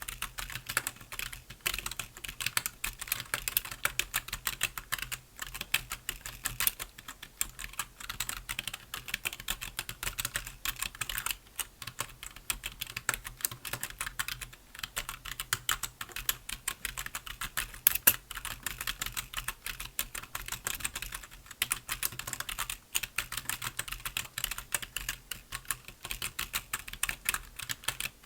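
Continuous typing on a computer keyboard, a fast run of key clicks with brief pauses between bursts.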